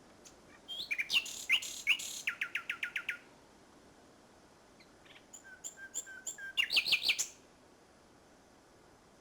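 Common nightingale singing: two loud song phrases of whistles and rapid trills, the first ending in a fast run of repeated notes, the second building into a loud burst, with pauses between.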